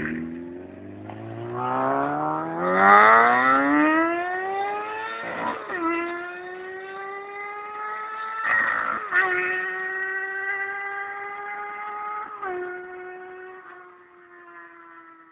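A 2001 Yamaha R6's 600 cc inline-four engine and exhaust accelerating hard. The revs climb steeply, then the pitch drops sharply three times as it shifts up through the gears. After the last shift the pitch holds nearly steady and the sound fades near the end.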